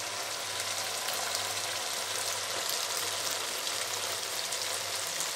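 Chickpeas in an oily spiced masala sizzling steadily in a steel wok as they are fried down, a constant hiss with fine crackles.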